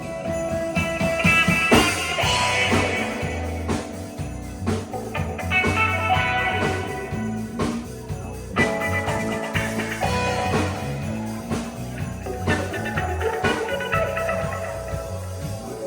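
A band playing rock music with no vocals in this stretch: guitar over a stepping bass line and drum kit.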